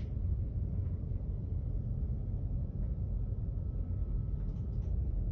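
Steady low rumble with a faint high hum and a few soft ticks near the end.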